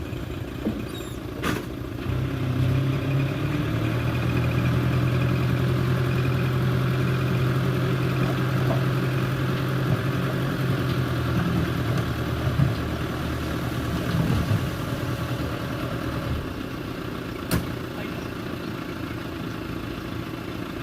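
Diesel engine of heavy earthmoving machinery running steadily. It gets louder about two seconds in and eases back around fourteen seconds, with a couple of short sharp knocks.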